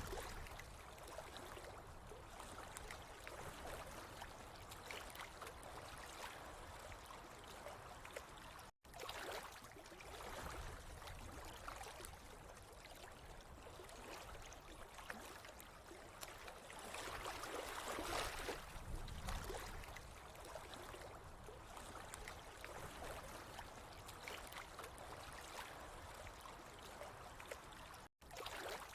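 Running water splashing and trickling steadily, swelling a little now and then. The sound cuts out completely for a moment twice, once about a third of the way in and again near the end.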